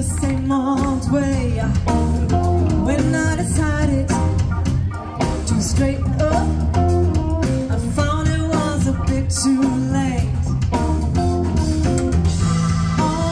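A band playing a rock song with a singing voice, guitar and drum kit.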